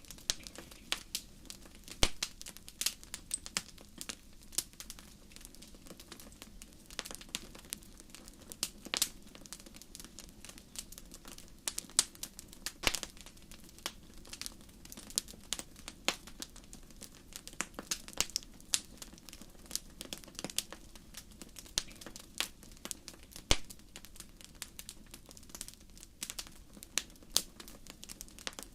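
Fire crackling: irregular sharp pops and snaps, some much louder than others, over a soft steady background hiss.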